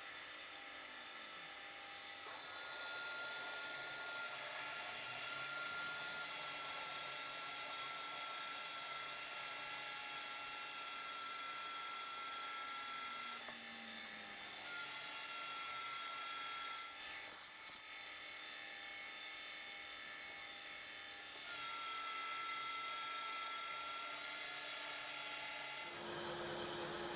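Insert spade drill cutting a hole through steel plate with cutting oil and no pilot hole: the machine runs steadily while the cut gives off a high squeal that comes and goes, with a brief rattle about two-thirds of the way through. Near the end the cutting noise drops away and a lower steady hum of the still-turning machine remains.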